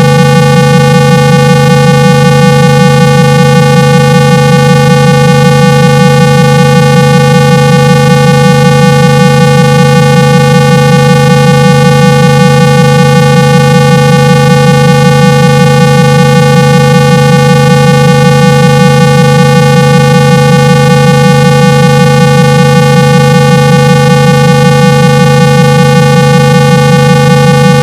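Loud, steady synthetic test tone at 165 Hz, a low buzz with many overtones above it, played through a phone speaker to shake water out of it and clear a muffled sound.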